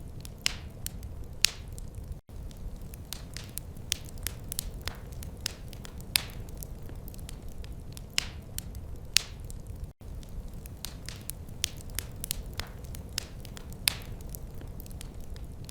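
Wood fire crackling, with irregular sharp pops and snaps over a steady low rumble. The sound cuts out for an instant twice.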